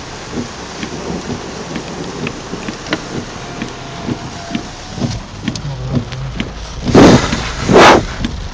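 Rain falling steadily with scattered drops ticking. A low rumble of thunder builds about five seconds in, and two loud bursts come close together near the end.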